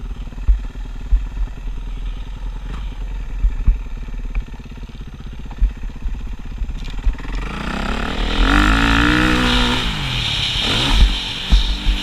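Motocross motorcycle engine, faint at first against a low rumble with scattered thumps, then growing loud about two-thirds of the way in as its pitch rises and falls, followed by a second, shorter rise and fall near the end.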